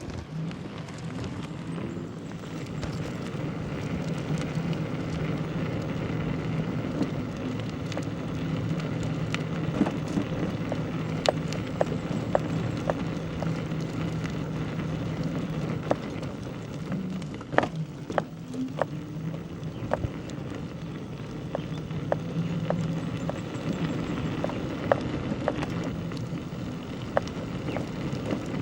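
Bicycle riding along a rough road: a steady rolling rush of tyre and wind noise with scattered sharp clicks and rattles.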